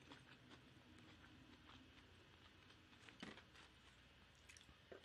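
Near silence with faint eating sounds: a few soft, scattered mouth clicks of chewing pho noodles.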